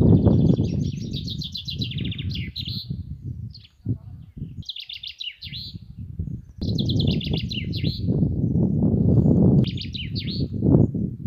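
A songbird singing short, rapid trilled phrases, four in all, with pauses between them. Under the song runs a loud, low rumbling noise, louder than the birdsong, which drops away for a couple of seconds in the middle.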